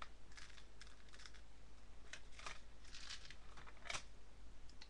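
Irregular light clicks and rustling of craft materials being handled while beaded trim is fitted.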